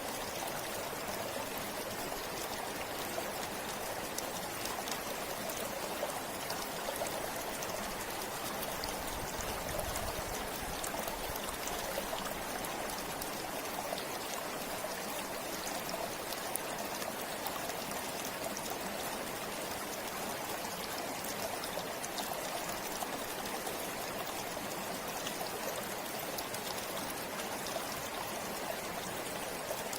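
Shallow river or stream flowing steadily over stones, a continuous rushing with fine splashes and trickles.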